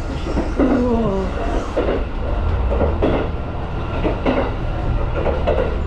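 A passenger train running, heard from inside the carriage: a steady low rumble of the wheels on the rails.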